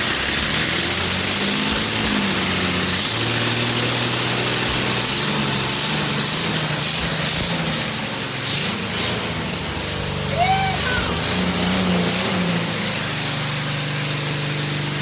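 Datsun L24 naturally aspirated inline-six engine running on its first start after restoration, its pitch stepping up and down a few times as the revs change.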